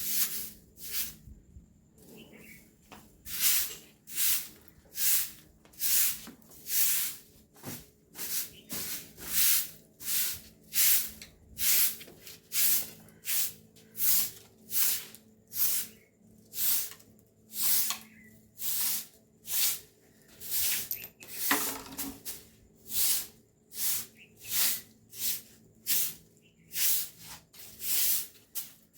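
Rhythmic swishing strokes, each a short hiss, repeating a little over once a second with a brief pause near the start.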